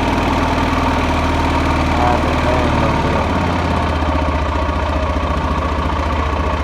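Arctic Cat engine idling steadily, now that it cranks and runs on a freshly replaced starter.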